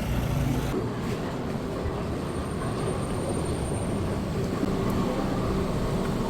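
A steady, low rumble of a motor vehicle running, with no sudden events.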